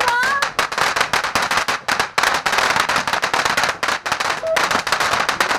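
A firework going off in a dense, rapid string of crackling pops that cuts off abruptly at the end. A whistling firework rises and fades in the first half second.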